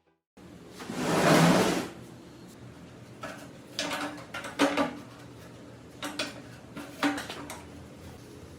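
Metal parts being handled in a workshop: a loud scraping rub about a second in, then half a dozen light metallic clanks with a short ring.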